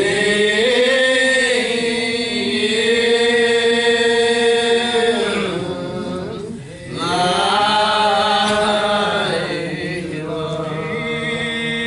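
Church singing in long held notes, in two phrases with a pause for breath about six and a half seconds in.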